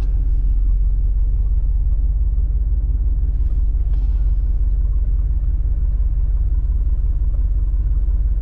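1989 Chevy G20 van driving, a steady low engine and road rumble.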